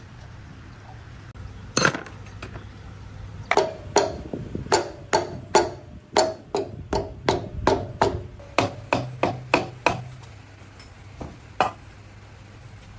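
Hammer blows on metal: a single strike, then a quick run of about eighteen strikes at about three a second, and one last blow near the end.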